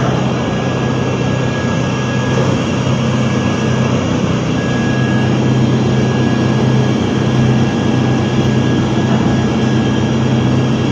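A ship's engine running steadily: a loud, even low drone with a constant noisy rush over it and a faint thin whine.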